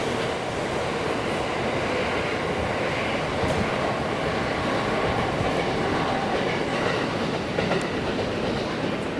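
An electric train running past along the station tracks, a steady noise of wheels on rails.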